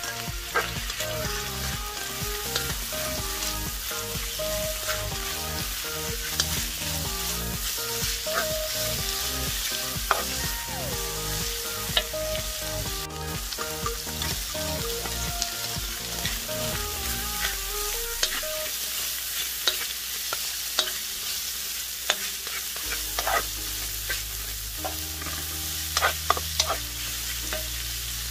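Chicken and vegetables sizzling in hot oil in a stainless steel wok as they are stir-fried, with the spatula scraping and clicking against the pan now and then. Soft background music plays underneath.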